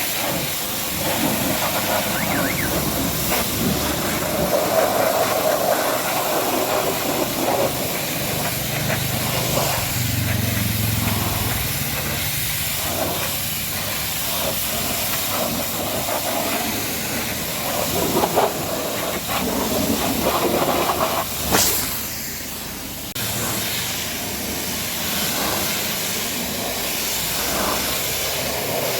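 High-pressure washer jet spraying water against a truck, a steady hiss that shifts as the spray moves over the surface. A short sharp crack about three-quarters of the way through.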